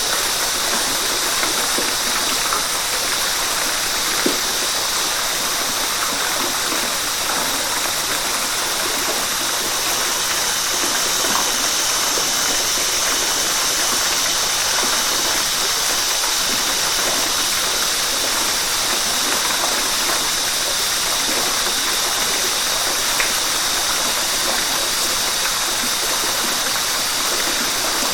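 A river's flowing water making a steady, unbroken rush, with a couple of faint ticks or splashes in it.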